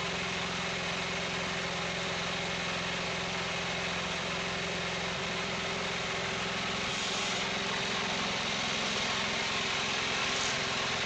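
Wood-Mizer portable sawmill's engine running steadily, getting slightly louder in the second half.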